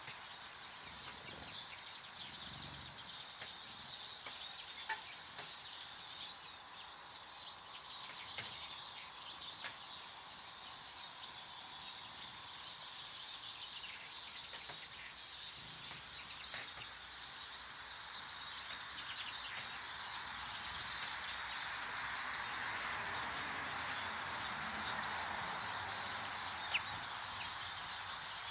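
Many small garden birds chirping and twittering continuously at a feeding table, over a steady rushing noise that grows a little louder in the second half.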